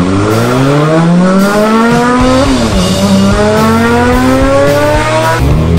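Motorcycle engine-revving sound effect, its pitch climbing as if accelerating. It drops sharply about two and a half seconds in, like a gear change, then climbs again and drops once more near the end.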